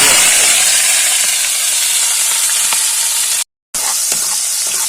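Onions and green chillies sizzling loudly in hot cooking oil, a dense frying hiss. It breaks off for a moment about three and a half seconds in, then carries on.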